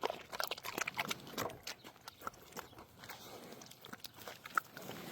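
A bear chewing and crunching its food in quick, wet crunches, dense for the first couple of seconds and then sparser.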